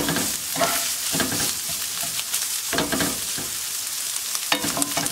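Sliced onions and green curry paste sizzling in a hot non-stick frying pan. A plastic spatula scrapes and stirs through them in several separate strokes.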